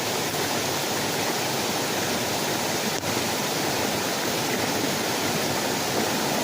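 Steady hiss of heavy rain falling, with a brief dip in level about three seconds in.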